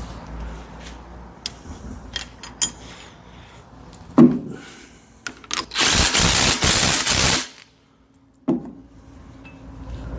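Impact wrench hammering for about a second and a half, tightening a quick coupler onto the end of a hydraulic hose, among light clicks and a couple of knocks of parts being handled.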